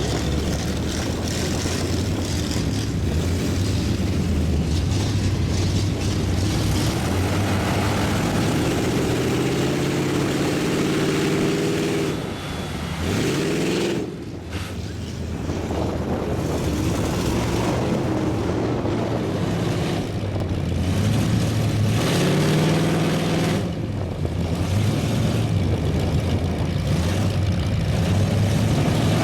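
Big mud-truck engines revving hard, their pitch rising and falling, with a brief drop and a quick climb about halfway through.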